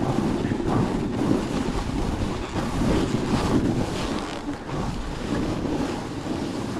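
Strong blizzard wind buffeting the microphone: a loud, unbroken rush heaviest in the low end, rising and falling with the gusts.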